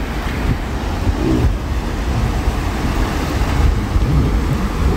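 Road traffic on a flooded street: cars running through the water, with wind buffeting the microphone as a steady low rumble.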